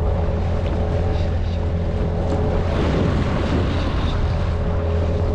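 Mercury 8HP outboard motor on a small inflatable boat running at a steady speed under way, with a constant hum and the rush of water and wind.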